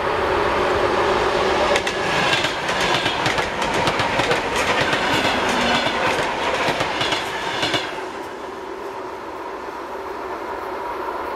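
ER2 electric multiple unit running along the line, its wheels clattering over rail joints in quick clicks over a steady hum. The clatter fades about eight seconds in, leaving a quieter running sound.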